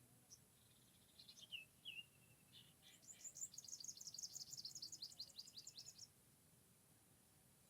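A bird calling faintly: a few short high chirps, then a fast, high trill of rapid descending notes lasting about three seconds, which stops about six seconds in.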